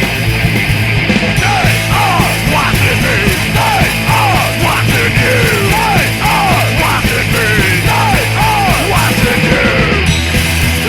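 Fast, loud punk rock song with distorted guitar, bass and drums, and yelled vocals starting about a second and a half in and dropping out about a second before the end.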